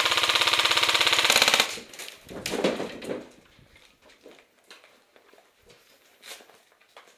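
Airsoft gun firing a long, rapid full-auto burst that stops about one and a half seconds in, followed by a brief lower noise and then faint clicks and rustling.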